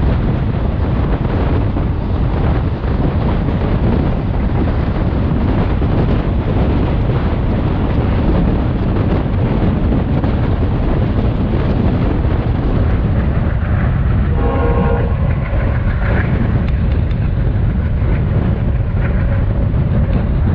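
Diesel-hauled passenger train running steadily on the rails, heard from on board. A brief horn sounds from the WDG3A locomotive about fourteen seconds in.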